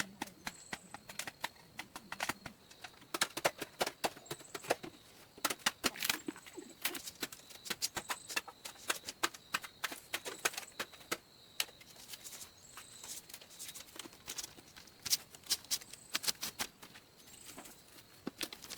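Irregular sharp clicks and taps, several a second and uneven in strength, over a faint steady high-pitched whine.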